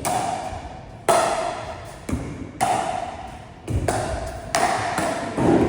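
A pickleball rally: about eight sharp pocks of paddles striking the plastic ball and the ball bouncing, irregularly spaced, each ringing briefly with echo.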